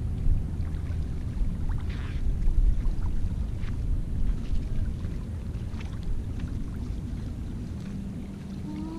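A boat's motor running steadily, a low rumble that slowly fades away toward the end, with a few light clicks over it.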